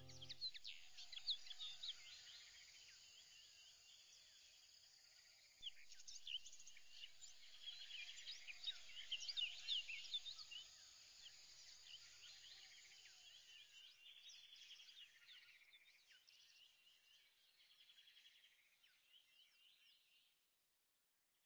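Faint chirping like small birds: many quick rising and falling calls, busiest in the middle and fading out near the end.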